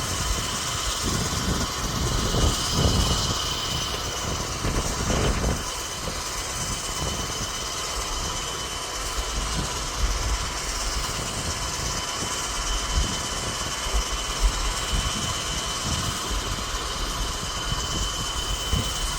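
Ford 7.3-litre Power Stroke V8 turbo-diesel idling as it warms up from a cold start, with wind buffeting the microphone in low, irregular gusts.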